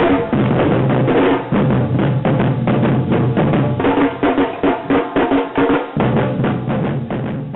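Samba band drums playing a fast, steady beat, with dense strikes over a low booming pulse.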